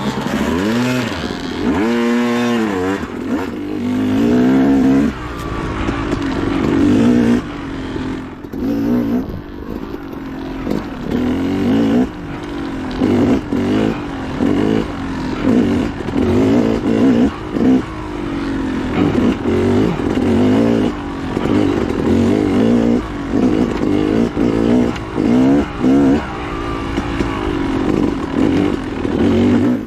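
Dirt bike engine revving hard through off-road riding, the pitch climbing and dropping over and over as the throttle opens and closes and the gears shift.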